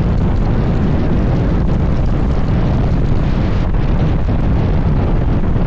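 Hurricane wind blowing hard across the microphone: loud, steady noise, heaviest in the low end.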